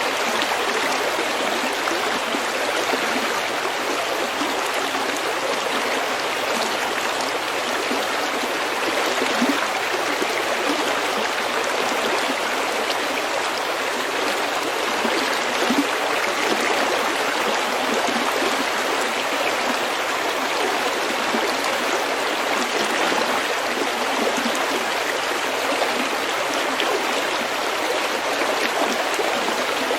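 Small stream flowing over pebbles: a steady, even rush and babble of water with no pauses.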